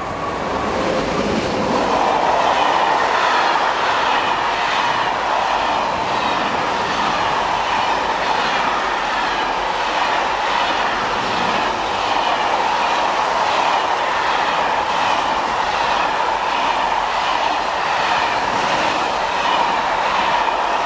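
Freight train of covered wagons passing close by at speed: a steady rumble of wheels on rails with a rhythmic clickety-clack, growing louder over the first two seconds as the locomotive arrives, then holding steady as the wagons run past.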